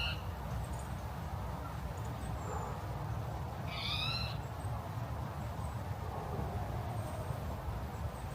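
A bird calling twice, a short high call at the start and another about four seconds later, over a steady low rumble.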